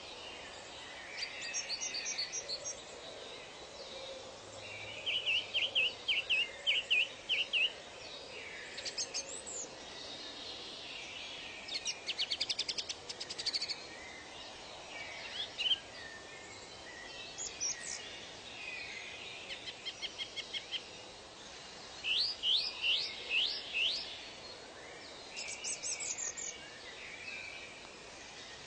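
Several wild birds singing in turn, in short phrases: quick trills, fast series of repeated notes and downward-slurred whistles, over a steady background hiss of forest ambience.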